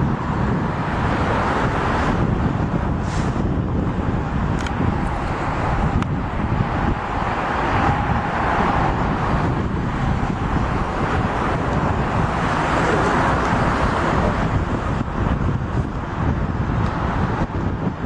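Train rolling past: a steady, loud rumble of wheels on rails that goes on without a break.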